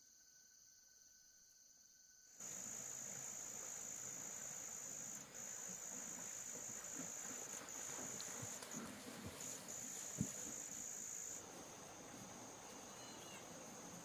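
A high, steady insect trill starts abruptly a couple of seconds in after near silence. It breaks briefly a few times, then drops to a fainter level near the end, with a single sharp knock a little after ten seconds.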